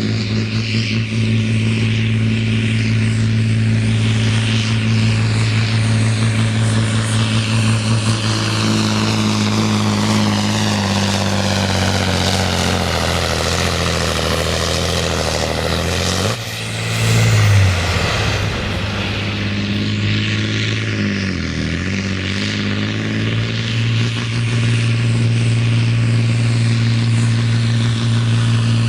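Heavy pulling truck's diesel engine running at high, steady revs. About two-thirds of the way through it drops off suddenly, surges briefly, and dips once more before settling back to a steady pitch.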